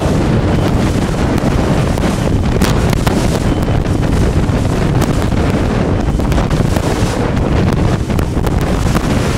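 Wind buffeting the microphone on a moving boat, a steady loud rumble with the rush of water beneath and occasional sharp gusts.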